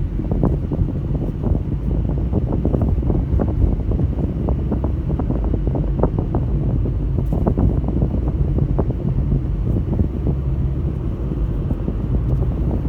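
Car driving, heard from inside: a steady low rumble of engine and tyres on the road, with many small knocks and rattles all through.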